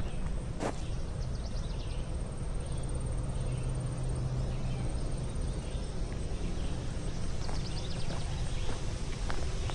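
Footsteps of a person walking a trail, with scattered light clicks and one sharper click about half a second in. A thin, pulsing high trill sounds in the background, and there are two short runs of quick high chirps.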